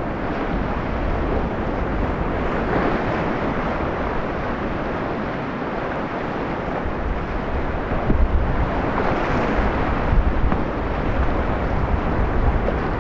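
Whitewater rapids rushing steadily, with wind buffeting the microphone in low rumbling gusts from about eight seconds in.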